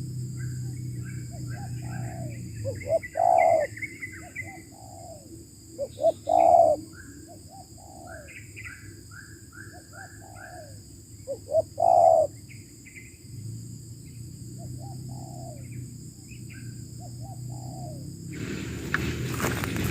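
Spotted doves cooing, with three loud coo phrases spread through, among quieter coos and the quick chirping of small birds. Near the end the noise of a passing vehicle sets in.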